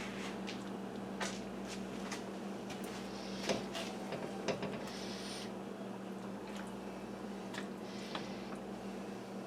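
A spoon scooping rice into a dish: a few light clicks and four short, soft scrapes, over a steady low hum.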